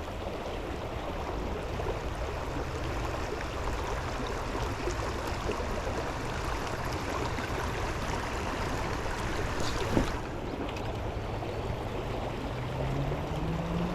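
River water rushing steadily. A single click comes about ten seconds in, and a low hum rising in pitch starts near the end.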